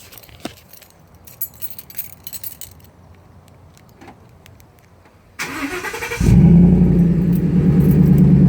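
A few faint clicks and rustles, then the Ford F150's 5.0 V8 cranks briefly and catches about six seconds in, a warm start. It settles straight into a loud, steady idle through an MBRP aluminized 3-inch side-exit pre-axle exhaust.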